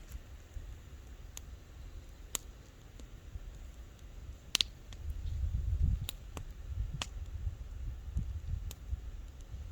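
Wood fire crackling: scattered sharp pops and snaps, roughly one every second or so, over a low rumble that swells about five seconds in.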